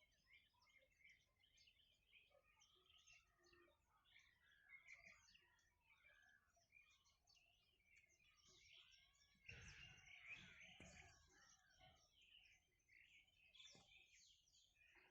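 Faint dawn chorus of small birds: many overlapping short chirps and twitters, a little louder about two-thirds of the way through.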